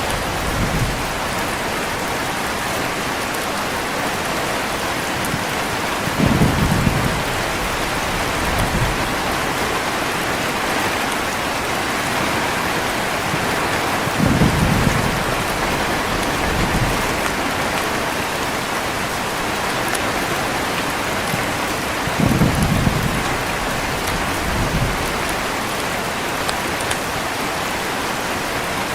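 Heavy rain falling steadily, with short low thunder rumbles swelling about every eight seconds, each followed by a fainter one.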